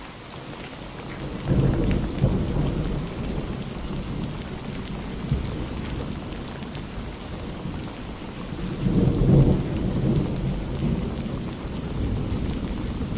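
Thunderstorm: steady rain falling, with two rolls of thunder, one starting about a second and a half in and a louder one about nine seconds in, each rumbling for a few seconds.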